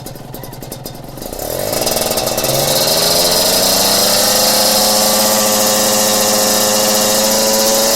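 Kawasaki Ninja RR two-stroke engine running through a WRX GP4 aftermarket exhaust: it starts at a low idle, then is revved up over about two seconds from a second or so in and held at a steady high rpm, creeping slightly higher.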